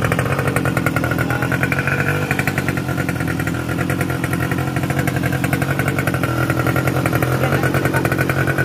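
50cc pocket bike engine running steadily, with a rapid, even firing rhythm.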